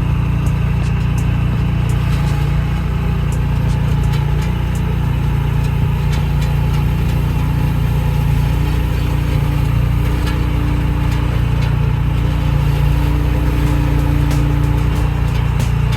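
An engine running steadily at an even speed with a low hum, and faint sharp ticks on top.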